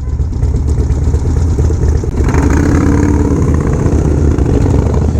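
Motorcycle engine running under way, a steady low rumble, with a higher engine note swelling over it for a second or so about two seconds in.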